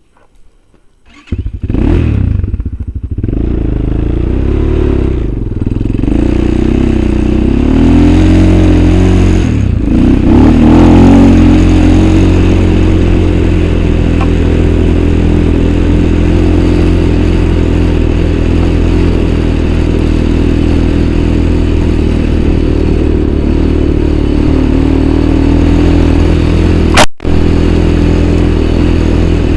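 A small motor-vehicle engine starts up about a second in, rises and falls in revs for a few seconds, then runs steadily at a fast idle. Near the end there is a sharp click and a momentary cut-out.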